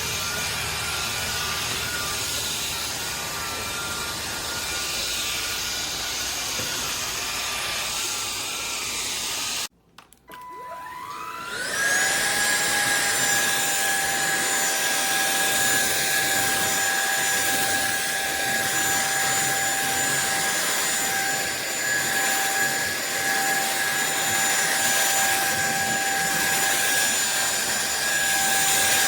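SunSare X7A 550 W cordless stick vacuum running with a steady motor whine that cuts out suddenly about ten seconds in. After a short beep the motor spins back up over a couple of seconds, a rising whine, and settles into a steady whine at a different pitch.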